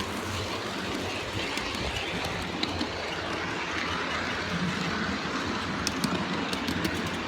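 G-scale model diesel locomotive running along the track: a steady motor-and-wheel hum, with a run of sharp clicks about six seconds in as the wheels pass over rail joints.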